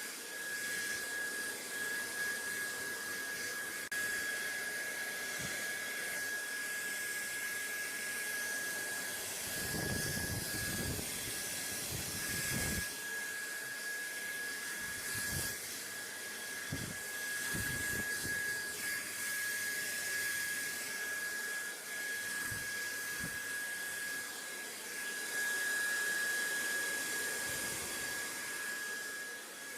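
Steady white-noise hiss with a thin, steady high tone running through it, and a few brief low rumbles, most in the middle stretch.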